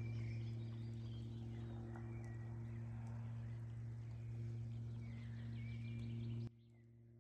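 Birds calling and trilling over a steady low hum, which cuts off abruptly about six and a half seconds in.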